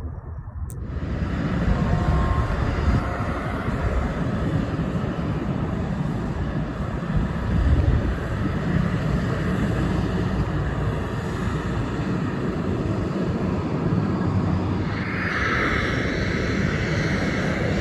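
Airplane engine running steadily with a low rumble, starting abruptly after a click about a second in; a higher-pitched tone joins near the end.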